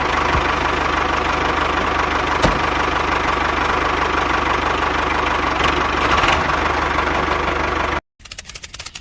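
An engine running steadily at idle; it cuts off abruptly about eight seconds in.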